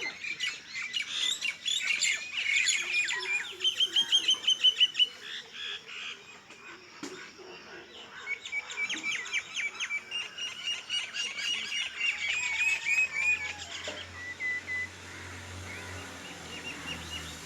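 Several birds chirping and singing at once, with quick repeated notes and trills, busiest in the first few seconds and thinning out after that. A faint low hum comes in about twelve seconds in.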